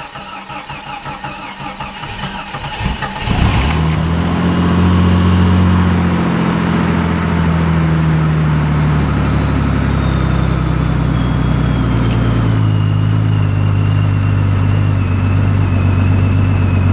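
1989 Jeep Cherokee's 4.0-litre straight-six cranking on the starter for about three seconds, then catching and running at a fast idle whose pitch slowly drops. This is a cold start at about 20°F after the engine has sat unstarted for two to three months.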